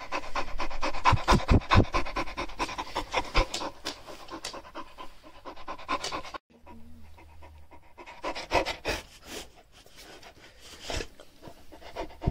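Shar Pei dog panting rapidly in quick, even breaths, a few of them louder huffs. About six seconds in it cuts off abruptly and goes on quieter and sparser.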